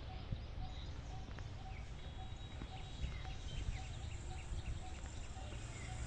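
Birds chirping briefly over a steady low rumble, with a faint short tone repeating at an even pace.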